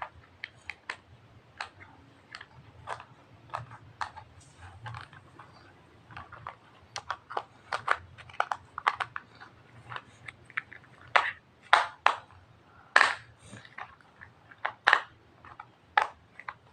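Irregular sharp clicks and knocks of tools being handled and tapped, the loudest of them in a cluster a little after the middle.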